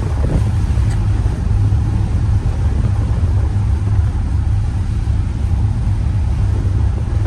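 Car driving, with the engine and road noise making a steady low rumble.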